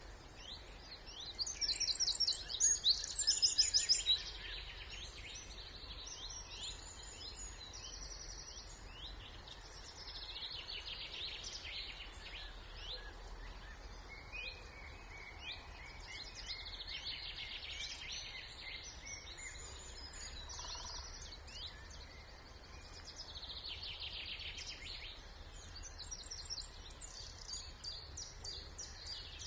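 Several songbirds singing at once in a spring chorus, with one nearby bird's song much louder for a couple of seconds near the start. A steady low rumble of distant background noise runs underneath.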